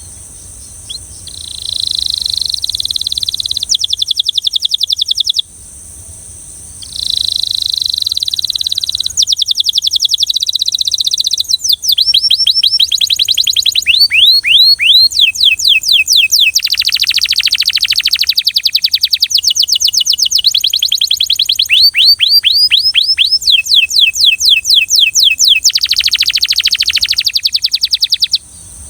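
Belgian canary singing in long phrases of fast, high-pitched trills and rolls, with runs of rapidly repeated down-sweeping notes. There is a short break about six seconds in.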